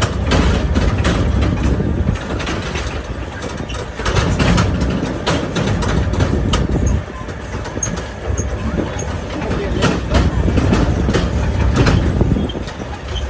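Tractor engine running with a heavy low rumble, along with frequent sharp rattles and knocks.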